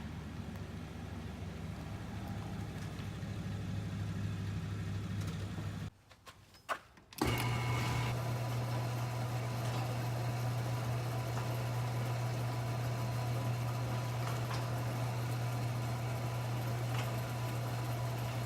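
Truck engine running steadily with a low, even hum. It breaks off for about a second about six seconds in, then runs on steadily.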